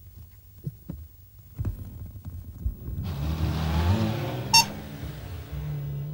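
A car engine running and pulling away, its low rumble swelling about halfway through, with one brief sharp high beep in the middle.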